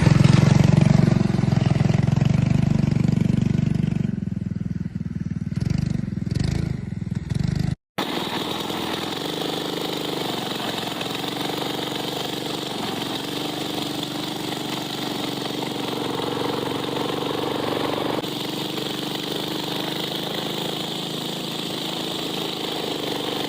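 Harbor Freight Predator 212cc single-cylinder four-stroke engine running in a 1971 Moto-Ski Mini Sno snowmobile. The sound breaks off sharply about eight seconds in and resumes as a steadier, slightly quieter running note.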